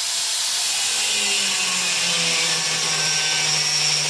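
Power tool cutting steel, a steady harsh hiss with its motor hum sliding slowly lower as the cut goes on.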